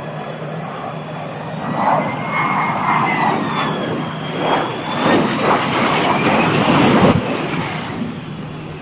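Airplane jet engines running, a loud rushing noise over a steady low hum with a whine that slides up and down in pitch. It grows louder about two seconds in and eases after about seven seconds.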